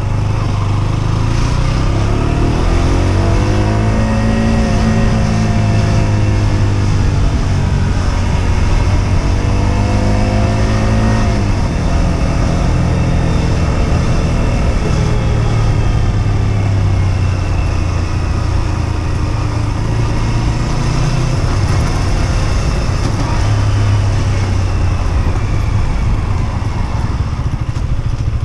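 Husqvarna Svartpilen 125's single-cylinder engine running under way, its pitch rising and falling several times in the first dozen seconds before dropping and settling to a steadier low drone. A constant rush of wind and road noise runs underneath.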